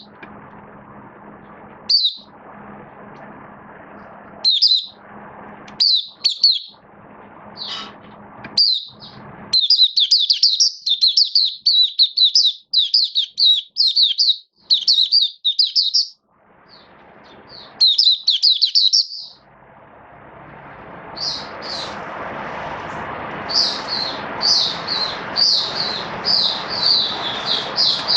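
White-eye (mata puteh) singing: quick strings of high twittering chirps, with a long, fast run of song in the middle. A steady hiss sits under the song in the second half.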